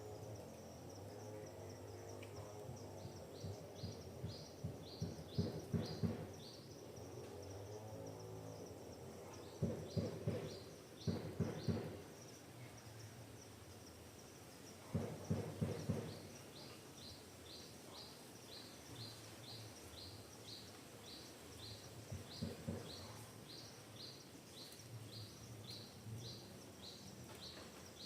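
Forest birdsong: a bird repeats a short high chirp about three times a second, over a steady high insect-like hum. Four times, a burst of rapid low pulsing sounds for a second or two.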